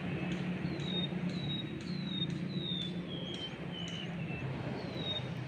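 A bird calling a series of short whistled notes, each falling in pitch, about two a second with a brief pause near the end, over a steady low hum.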